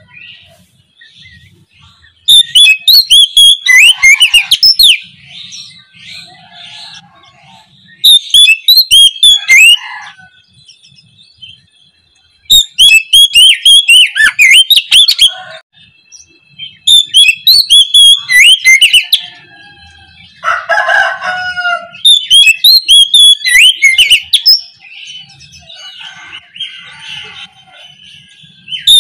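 Oriental magpie-robin (kacer) singing in loud bursts of rapid, high, twisting notes, five bursts each about two to three seconds long, with softer song between them and a lower call shortly before the last burst.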